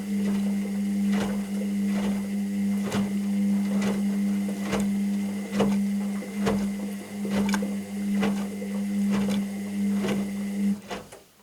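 Washing machine running: a steady motor hum with irregular knocks and clicks as the drum turns the load. The motor cuts off near the end, with a last click or two.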